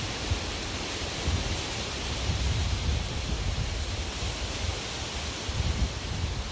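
Strong wind blowing as a steady rushing hiss, with irregular low rumbles from gusts buffeting the microphone.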